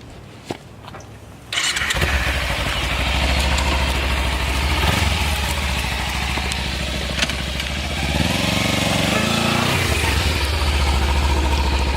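Motorcycle engine starting and then idling with a low, rapid throb, with a brief rise in pitch about eight seconds in.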